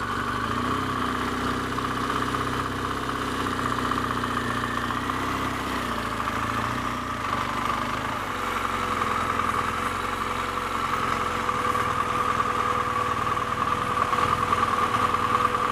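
BMW R1200GS flat-twin engine running steadily at low road speed, its note changing about six seconds in.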